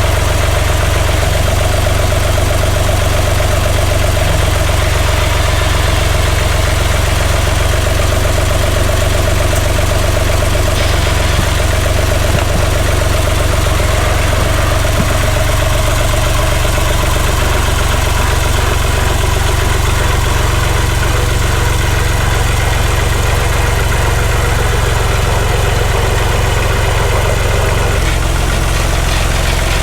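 Oliver farm tractor engine running steadily, its note shifting slightly near the end.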